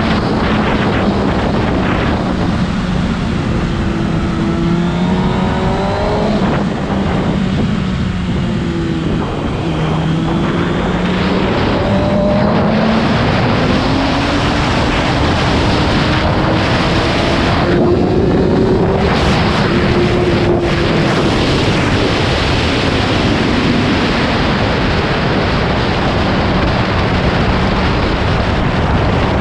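Motorcycle engine at speed on a race track, its pitch climbing and dropping repeatedly as it is revved and shifted through the gears, under heavy wind rush.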